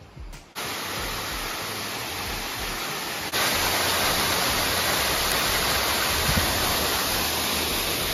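Steady rush of water falling at a small waterfall. It starts abruptly about half a second in and gets louder about three seconds in.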